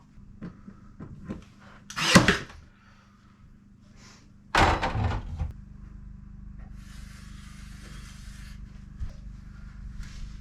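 Two loud wooden knocks about two and a half seconds apart, with lighter taps and clicks around them.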